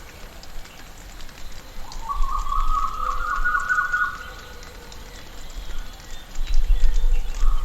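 Tropical rainforest ambience: a bird calls with a run of short, quickly repeated notes lasting about two seconds, and calls again near the end. Under it are a steady hiss with faint ticking and a low rumble that swells shortly before the second call.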